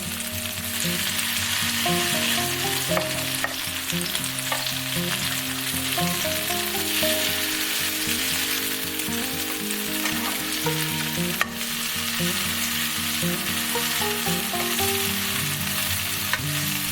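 Food sizzling steadily as it fries in a pan, under background music with a melody of held notes.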